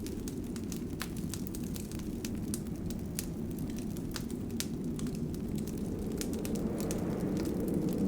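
Wood fire in a fireplace crackling, with scattered sharp pops of a few per second over a steady low rumble of the flames, which swells slightly near the end.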